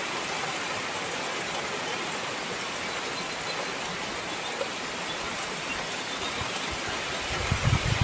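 Heavy rain falling steadily. A few low thuds come near the end.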